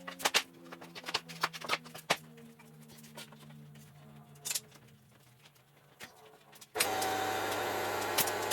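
Several sharp clicks and knocks of wooden boards and tools being handled during door-frame assembly in the first couple of seconds, then a quiet stretch. Near the end a loud, steady machine hum starts abruptly and keeps going.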